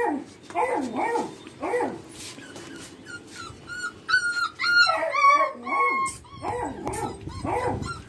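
Beagle puppies whining and yipping, a run of short pitched calls with high thin whines in the middle.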